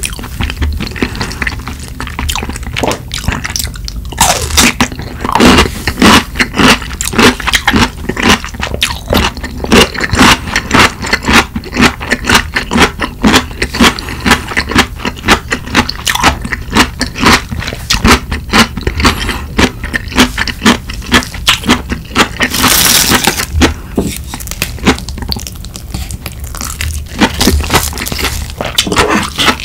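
Crunching and chewing of raw, crisp chonggak (ponytail radish) kimchi, close-miked: a rapid run of crisp crunches, several a second. About three quarters of the way through there is one longer rasping noise.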